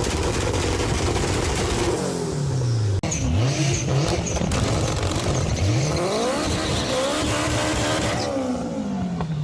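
Race car engine revving, its pitch climbing and falling several times, with an abrupt cut about 3 seconds in.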